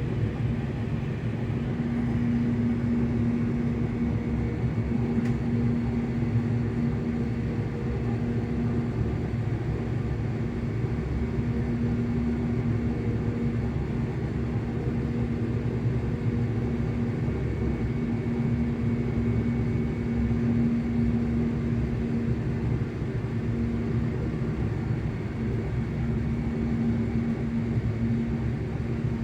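Traction motors of a ScotRail Class 385 electric multiple unit humming at a steady pitch, heard from inside the train over the low rumble of the running gear.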